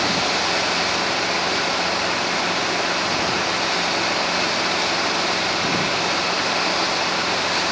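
Steady rushing cabin noise of a Robinson R22 helicopter in cruise flight, with a faint low drone from the engine and rotor underneath.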